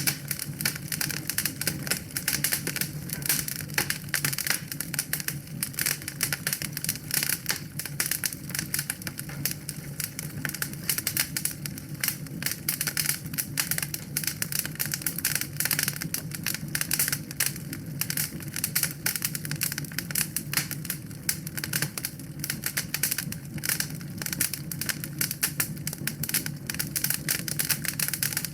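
Wood fire burning in a fireplace, crackling continuously with rapid, irregular snaps over a low steady hum.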